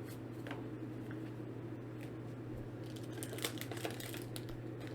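Faint, quick clicks and rustles of Pokémon trading cards and booster packs being handled, thickening over the last couple of seconds, over a steady low electrical hum.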